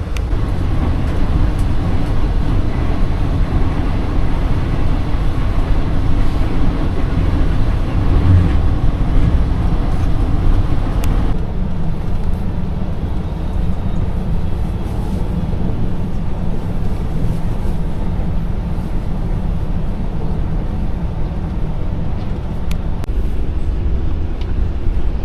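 Passenger train running, heard from inside the carriage: a steady, loud low rumble of the wheels on the track, with a few faint ticks. About eleven seconds in, the higher part of the rumble drops away suddenly and the low rumble goes on.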